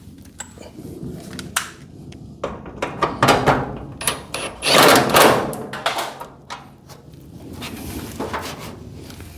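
Knocks, clicks and rattles of metal hinge hardware and hand tools being handled during hinge installation on a garage door, with a louder rasping noise lasting about a second around the middle.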